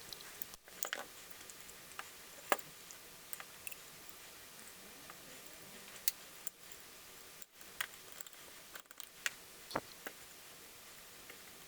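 Scattered sharp clicks and taps of hand tools and small engine parts being handled, over a steady low hiss, broken by a few brief dropouts.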